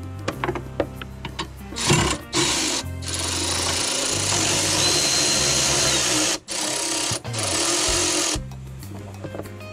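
A power tool running in several bursts with short stops, from about two seconds in until near the end, as it works on the bolts holding a car's starter motor. Background music plays underneath.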